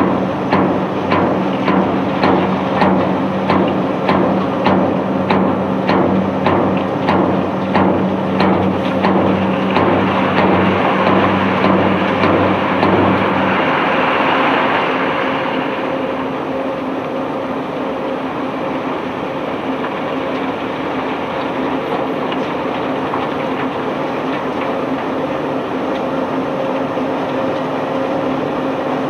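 Cargo-unloading machinery running. For the first half it knocks rhythmically about twice a second over a steady low hum. A rushing noise swells around the middle, then a steady mechanical hum with a faint whine carries on.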